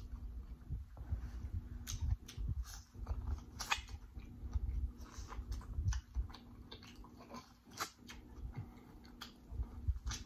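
A person chewing and biting corn on the cob close to the microphone, with wet mouth smacks and sharp clicks scattered irregularly over a low chewing rumble.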